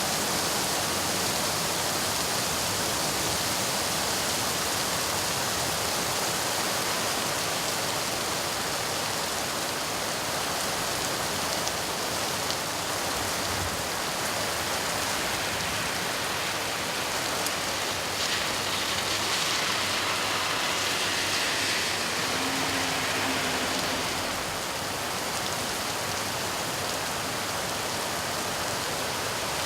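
Steady heavy rain falling, a dense even hiss, with a brighter hiss swelling for several seconds a little past the middle.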